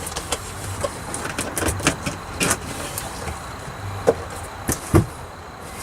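Irregular crinkles, rustles and light taps of sheet material being handled and pressed into place inside a car, with a dull knock about five seconds in.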